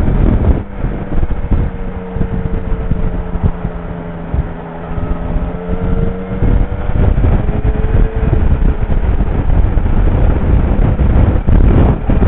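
Motorcycle engine running at a steady road speed under heavy wind noise on the microphone. The engine's steady hum sinks under the wind about seven seconds in.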